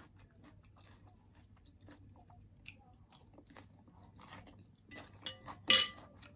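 Close-miked chewing of spinach salad, soft wet crunches and mouth clicks, with one louder sharp crunch or clack near the end.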